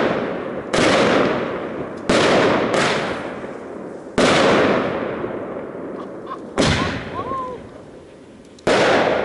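Aerial shells from a consumer firework cake bursting overhead: six loud booms spread unevenly over about nine seconds, each trailing off over a second or two.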